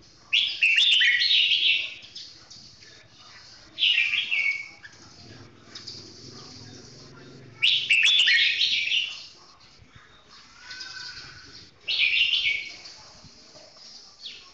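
Red-whiskered bulbul singing: four short, loud song phrases a few seconds apart, with fainter calls between.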